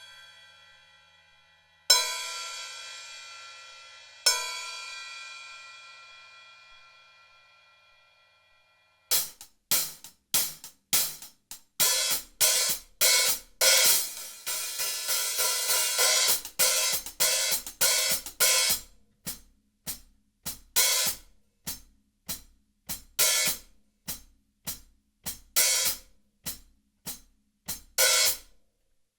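A 14-inch Paiste Sound Formula Medium Heavy hi-hat pair from 1991, struck with hickory sticks. Two hits a couple of seconds apart ring out and slowly fade. After a short pause comes a run of quick stick strokes, washy and sustained through the middle, then thinning to separate sharp hits with gaps between them.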